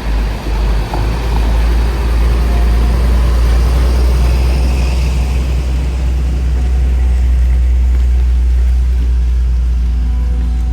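A motor vehicle running close by on the road, giving a loud, steady low rumble.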